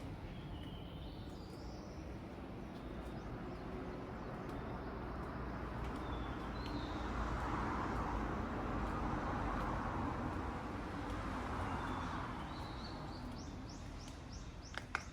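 Sea waves washing onto a beach: the surf builds to a broad wash through the middle and then eases back. Small birds chirp faintly now and then.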